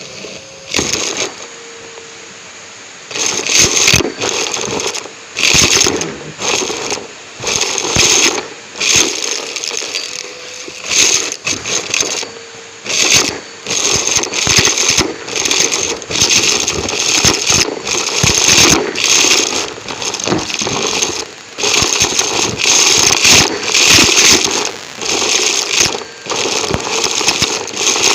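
Numatic James vacuum cleaner, miked up close, running and sucking up debris: irregular bursts of crackling and rattling, about one a second, over the steadier motor noise.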